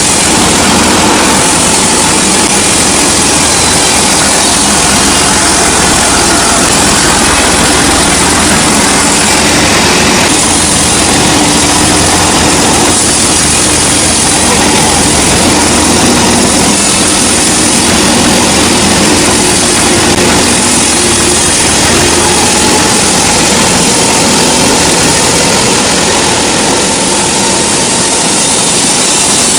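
Sawmill machinery running steadily: loud, even engine and saw noise with a low hum underneath, changing a little about ten seconds in.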